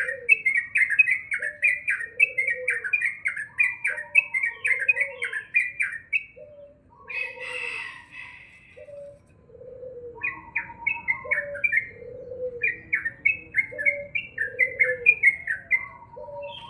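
Sooty-headed bulbul (crucukan) singing a fast, continuous string of chattering notes, breaking off about halfway with a short harsh call before starting again. A lower note repeats underneath roughly once a second.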